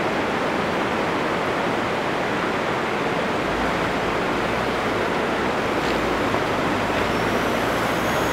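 Chevrolet Captiva's engine working under load, with ESP switched off, as the car climbs a steep rutted slope, over a steady rushing noise. The engine note deepens about halfway through and begins to rise near the end.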